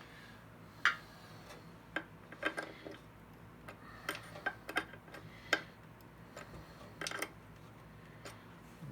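Irregular sharp clicks and light metal taps of hand tools working the screws on a thickness planer's blade holder. The loudest click comes about a second in.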